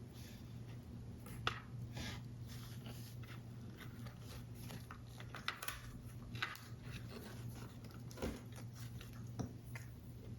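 Card paper being handled while a paper model is assembled: scattered small clicks, taps and soft rustles, a few sharper than the rest, over a steady low hum.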